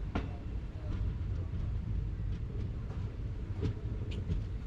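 A train running along the track: a steady low rumble with scattered short clicks and knocks.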